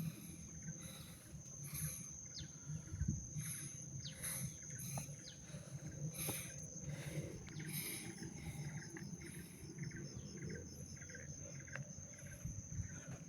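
Insects trilling in one steady, high buzz, with short chirps repeating above it and a low rumble underneath.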